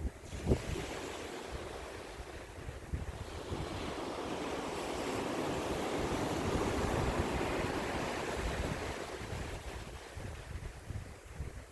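Ocean waves on the shore: one wave washes in, swelling to a peak about midway and then fading out. Wind buffets the microphone with a low rumble throughout, and there is a sharp thump about half a second in.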